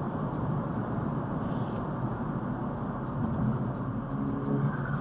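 Modified BMW exhaust rumbling at low revs with a deep, steady note that swells a little from about three seconds in.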